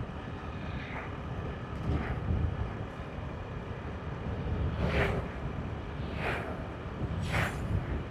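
Motorbike riding on the road: a steady low rumble of engine and wind buffeting the microphone, with three short whooshes late on.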